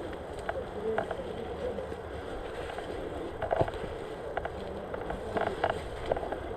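Airsoft player on the move: a steady rumble of movement and wind on a body-worn camera's microphone, broken by a few short clusters of rapid clicks, about a second in, halfway through and again near the end.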